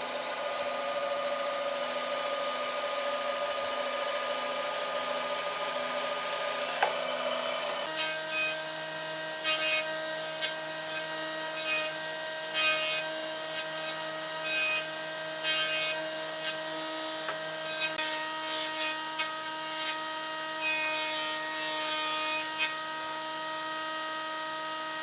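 An electric power tool runs with a steady motor whine while working wood. About a third of the way in the whine changes, and short rasping strokes of cutting or sanding follow every second or so.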